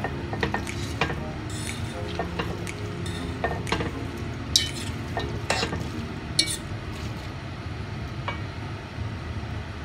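Spaghetti being stirred and tossed in a wok with a fork and spatula: utensils scraping and clinking against the pan at irregular moments, the sharpest clinks about four and a half and six and a half seconds in, over a steady low sizzle.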